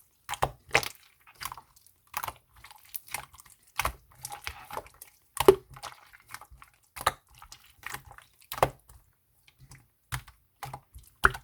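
Clear slime squished and pressed by hand, making irregular sharp clicks and wet pops, a louder one about every second with smaller ones in between.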